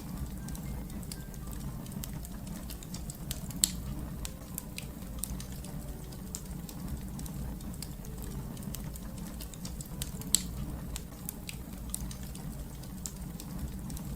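Wood fire crackling over a steady low rumble, with irregular snaps throughout and two loud pops, about three and a half and ten seconds in.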